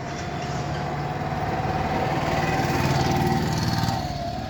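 Motorcycle engine running. It grows louder for about three seconds, then eases off near the end, over a steady whine.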